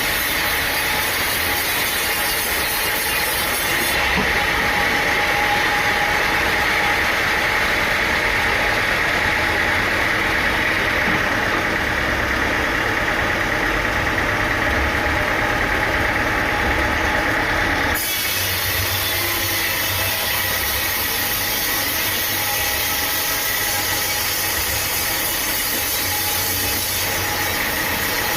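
Engine-driven sawmill machinery running steadily with a constant drone. Its sound changes abruptly twice, about four seconds in and about eighteen seconds in.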